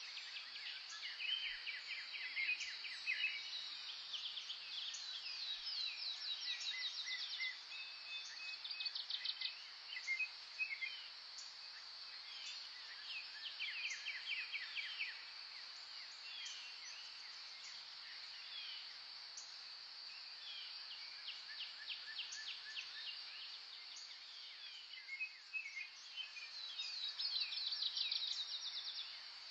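Several songbirds singing at once in a natural chorus: rapid trills and quick runs of high notes that overlap and keep coming, set against a steady high-pitched drone.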